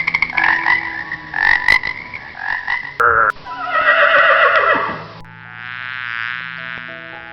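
Horse whinnying in quavering calls that fall in pitch, then a harsh, steady buzzing call for about two seconds near the end.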